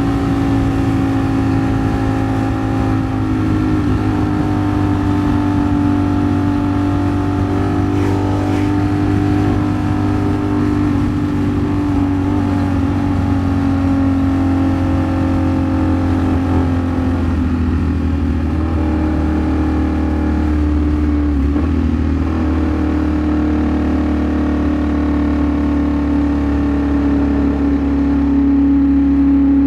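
Ducati Streetfighter V4 S's V4 engine running at a steady cruise under the rider, with a constant rush of wind noise. The engine note dips slightly around the middle, then holds steady again.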